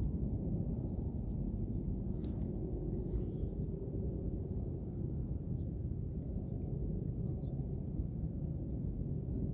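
A bird repeats a short, high, thin call about once a second over a steady low rumble, with one sharp click about two seconds in.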